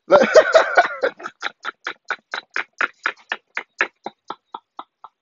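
A man laughing at length: a hearty burst at first, then a long string of short 'ha' pulses, about four a second, that trail off and fade.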